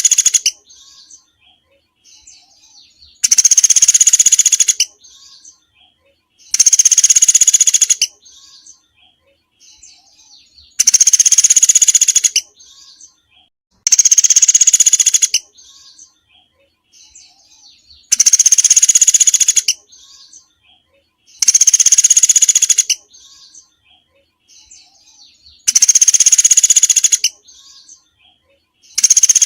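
A small songbird singing: a fast, high trill about a second and a half long, repeated every three to four seconds, with faint chirps in between.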